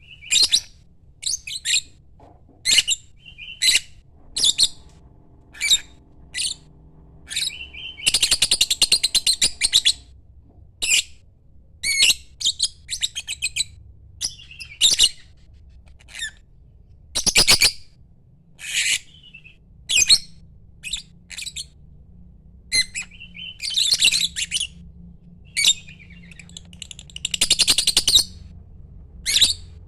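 Lovebird calling: a steady string of short, sharp, high chirps and squawks, with a few longer, rapid chattering bursts mixed in.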